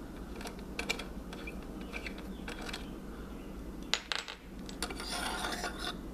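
Small hard lamp parts clicking and clinking as the candle-style tubes are worked off the lamp's bulb sockets, with a short stretch of scraping near the end.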